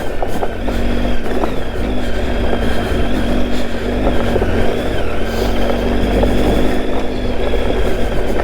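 Triumph Tiger 800's three-cylinder engine running at a fairly steady low speed on a trail ride, its note wavering slightly, over a heavy low rumble.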